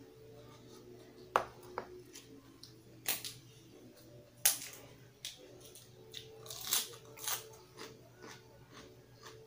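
Close-miked mouth sounds of a person chewing raw food, with sharp crunches every second or so.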